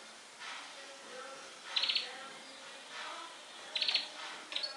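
European goldfinch × canary hybrid singing a warbling song, broken about every two seconds by a short burst of rapid, high, clicking notes.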